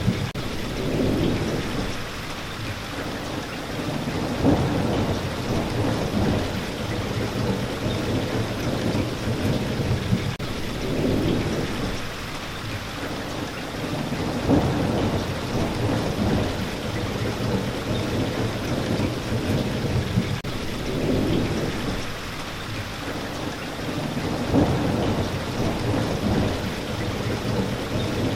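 Steady rain falling, with low rumbles that swell and fade every few seconds.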